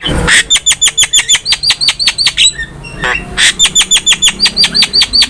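Javan myna singing: two fast runs of short, repeated whistled notes, about six a second, with a brief pause between the runs.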